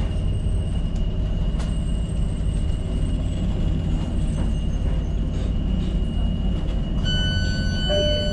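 Tyne & Wear Metro train running along the track, a steady low rumble of wheels on rails with a few faint clicks. About seven seconds in, a steady high tone starts and holds.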